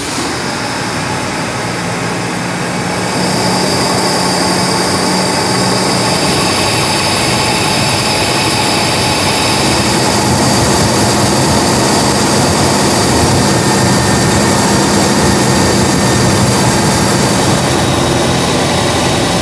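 Mercedes-Benz R107 450SL's 4.5-litre V8 running at idle just after being started, in its warm-up phase with a newly fitted auxiliary air valve regulating the idle. It steps up in loudness about three seconds in, then runs steadily.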